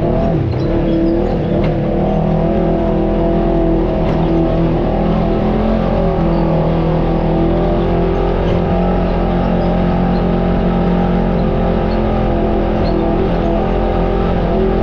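Off-road vehicle's engine running at a steady speed while crawling a trail, with a brief wobble in pitch at the very start.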